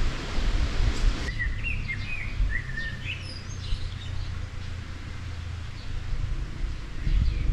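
Wild birds chirping and singing in short, quick phrases over a low rumble; the first second or so is a noisy hiss before the birdsong comes through.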